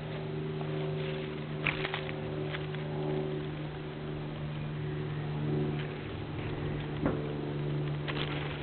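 A motor running with a steady low hum, with a few brief sharp ticks about two seconds in and again near the end.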